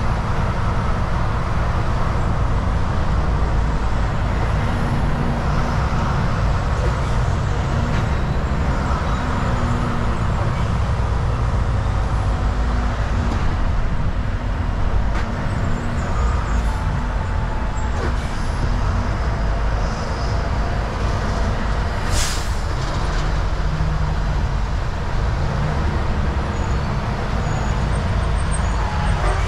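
Volvo VNL 760 semi truck cruising on the highway: a steady low engine drone mixed with road noise, with one brief sharp noise about two-thirds of the way through.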